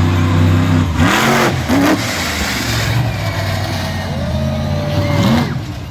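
Big-block monster truck engine running loud in the arena, blipped hard to full throttle about a second in and revved up and down again near the end.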